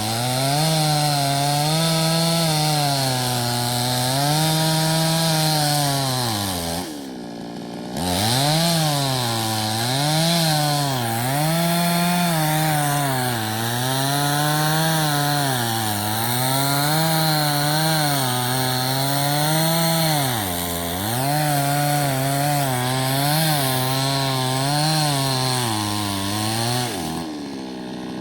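Chainsaw running hard while cutting wood, its pitch rising and falling about once a second. The engine drops off briefly about seven seconds in and again near the end.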